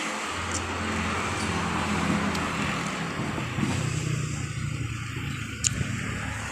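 Road traffic: a vehicle engine runs with a steady low hum that comes in about half a second in, over a constant wash of traffic noise.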